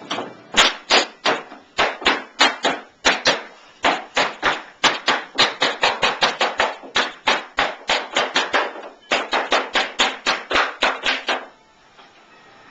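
Hammering: a long run of sharp, regular strikes, about three a second, that stops suddenly near the end.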